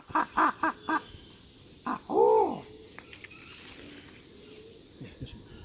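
Hooting calls in the manner of an imperial pigeon: about five short quick notes, then one longer, louder note that rises and falls about two seconds in. A steady high insect drone runs underneath.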